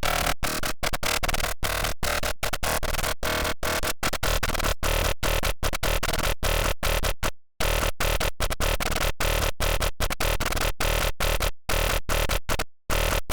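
Harsh, distorted, dubstep-style synthesizer patch from the Serum wavetable synth, its wavetable made from an image. It is played as loud stuttering notes, chopped into short hits several times a second, and it drops out briefly about seven and a half seconds in and again near the end.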